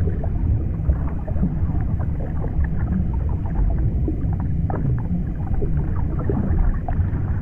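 Underwater ambience: a steady deep rumble with many short scattered clicks and chirps over it.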